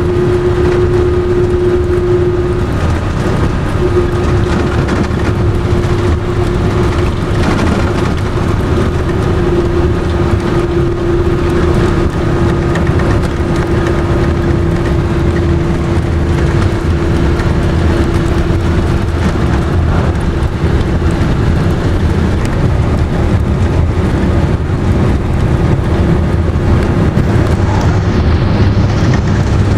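Car driving at highway speed: steady road and engine noise with a low hum that fades in and out.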